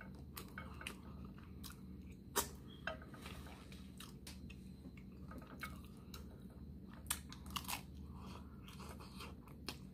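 Close-up chewing and crunching of crispy hard-shell tacos, with scattered sharp crunches; the loudest come about two and a half seconds in and in a cluster around seven seconds in.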